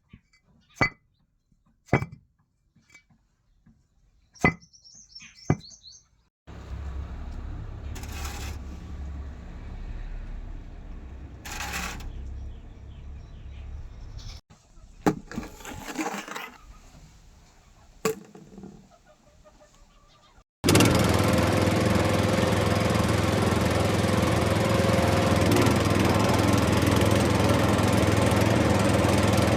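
A run of sharp knocks and clicks, then a low rumble, then about two-thirds through a small motor starts running loud and steady.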